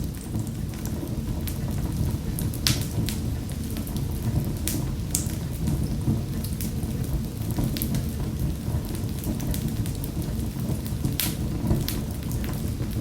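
Wood fire crackling in a fireplace: a steady low rumble of the burning fire with sharp pops scattered throughout, the loudest about three seconds in and again near the end.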